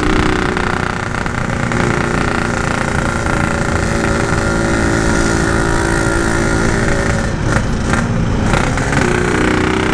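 Yamaha RX-King's single-cylinder two-stroke engine running under way, holding a steady note. The bike is short of pull, which the rider blames on an over-wet carburettor.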